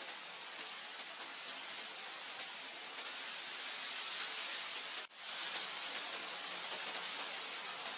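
Wind blowing over grassland: a steady, airy hiss with no gusts standing out. About five seconds in it drops out for an instant and comes straight back.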